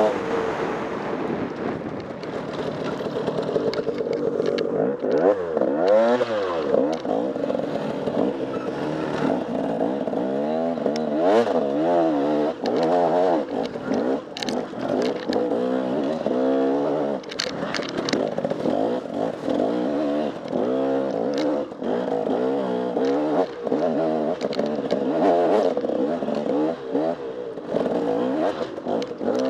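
Off-road enduro motorcycle engine, revving up and falling back over and over as the bike is ridden hard over rough trail, with frequent short knocks and clatter from the bike striking the terrain.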